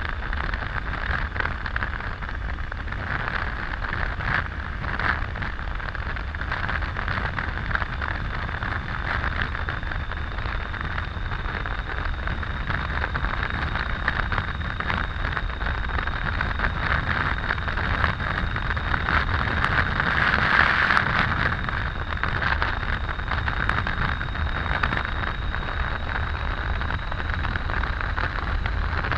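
Steady rush of wind and road noise from a Triumph Tiger 800 motorcycle riding at cruising speed on the highway, swelling briefly about twenty seconds in.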